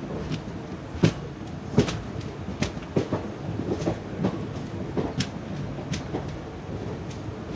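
Ananthapuri Express passenger train running along the track, its wheels clicking over rail joints against a steady rumble. The sharp clicks come about once a second; the loudest are about one and two seconds in.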